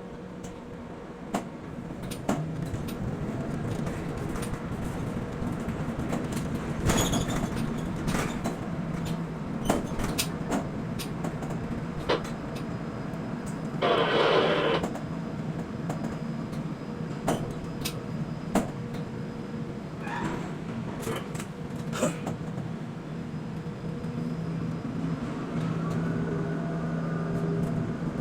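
Quay container crane machinery running: a steady motor hum with many sharp clanks and knocks, and a burst of noise about halfway through that lasts about a second.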